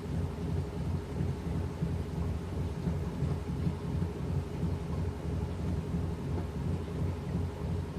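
Washing machine running mid-cycle, its drum turning the wash: a steady low rumble that wavers slightly.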